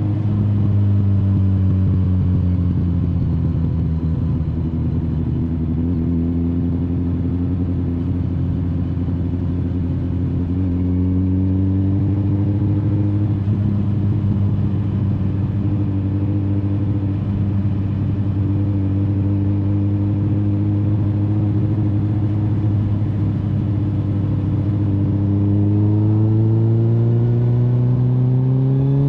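Kawasaki Z900's inline-four engine running at a steady cruising pitch, then revving higher over the last few seconds as the bike accelerates.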